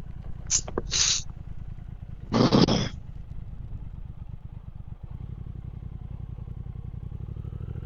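Motorcycle engine idling steadily while stopped. Two short, loud rushes of noise break in at about one second and two and a half seconds in.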